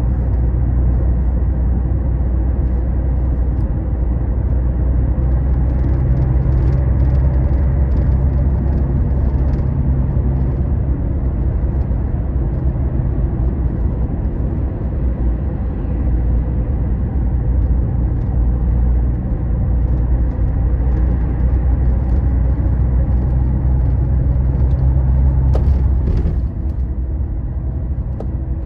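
Scania Astromega double-decker highway bus cruising, a steady low engine and road drone with a few faint light clicks; the drone eases slightly near the end.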